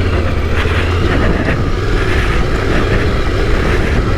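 Yamaha Ténéré 700's 689 cc parallel-twin engine running steadily as the bike is ridden along a trail, with a haze of wind noise on the microphone.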